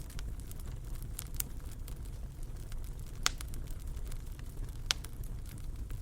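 Wood fire burning in a fireplace: a steady low rumble of the flames with scattered sharp crackles and pops, two of them louder, in the middle and toward the end.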